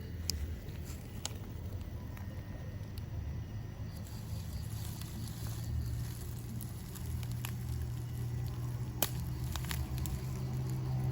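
A motor vehicle's engine running as a low hum that grows louder through the second half, with a few sharp clicks over it.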